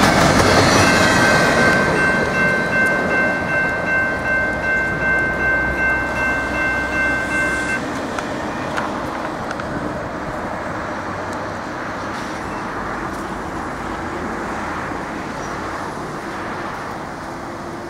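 Double-stack intermodal freight cars rolling past on the rails, the wheel noise fading as the train moves away. A grade-crossing bell rings with a steady pulsing tone and stops suddenly about eight seconds in.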